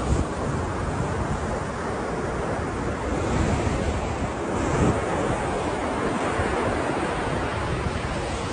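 Ocean surf: a steady wash of waves with the surge swelling a little in the middle, and some wind rumble on the microphone.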